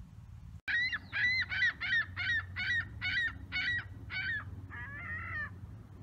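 A bird calling: a fast run of about eleven loud calls, roughly three a second, starting abruptly about half a second in, then a softer cluster of calls near the end.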